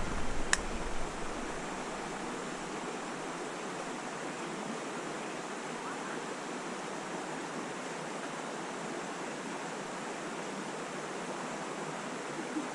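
Steady rushing of a small creek's flowing water, with a single sharp click about half a second in.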